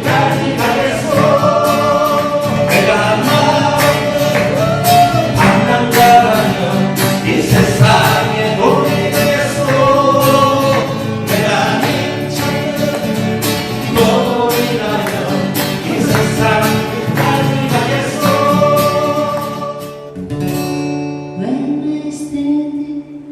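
Acoustic guitars strummed in a steady rhythm while a group sings along. About 20 seconds in the singing stops and the last guitar chords ring on.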